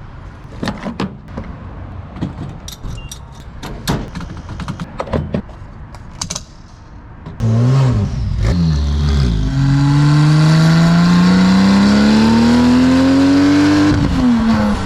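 Porsche 996 911 Turbo's twin-turbo flat-six through a straight-piped titanium X-pipe exhaust. For the first seven seconds it runs quietly, with scattered clicks and rattles. Then it turns suddenly loud under full throttle, its pitch dipping briefly and then climbing steadily as the car accelerates, before dropping as the throttle lifts near the end.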